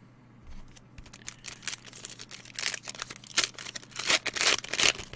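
A trading-card pack's wrapper being torn open and crinkled by hand: a run of crackling tears and rustles that grows busier and louder toward the end.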